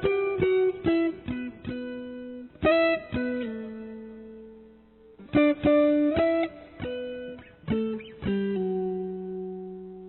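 Background music: a plucked guitar playing a slow melody, single notes struck and left to ring and fade, with a long held note near the end.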